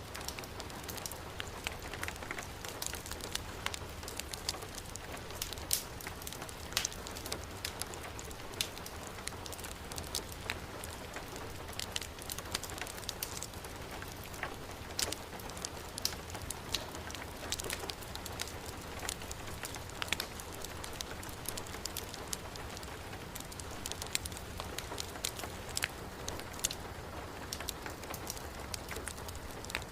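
Heavy rain falling steadily with a wood fire crackling in a fireplace: an even hiss of rain with irregular sharp pops and snaps scattered throughout.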